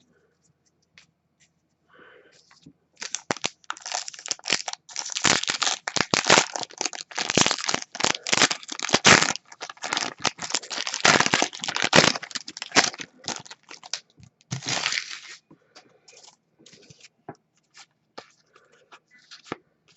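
Foil trading-card pack wrapper being torn open and crinkled by hand, a dense run of crackling from about three seconds in to about fifteen seconds, then a few faint rustles.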